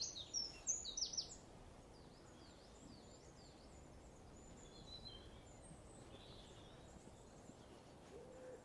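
A small songbird singing a quick series of high, falling notes for about the first second, then only faint, scattered bird chirps over quiet outdoor background.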